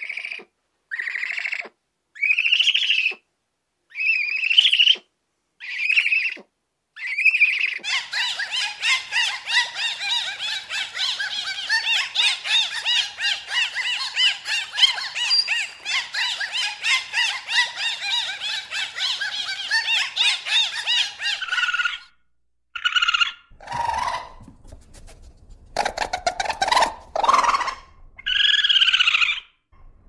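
High-pitched animal squeals and calls. There are separate rising squeals roughly a second apart for the first eight seconds, then a dense, fast, unbroken chatter of calls until about 22 seconds in, then scattered calls of a different kind.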